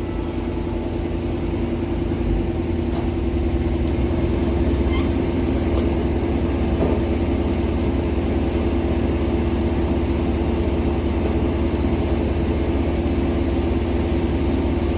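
JCB 16C-1 mini excavator's diesel engine running steadily.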